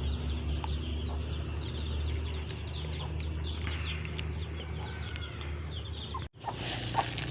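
A flock of free-range Indonesian village chickens: many chicks peeping in quick, rapid chirps, with hens clucking, over a steady low hum. The sound drops out briefly about six seconds in.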